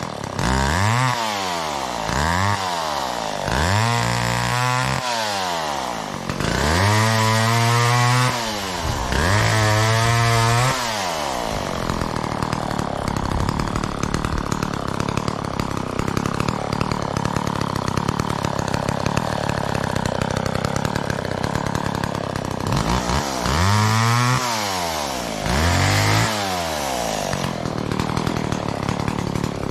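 McCulloch Mac 10-10 two-stroke chainsaw revved up and down repeatedly in short blips. Between the blips it runs low and steady for about ten seconds in the middle, then is revved twice more.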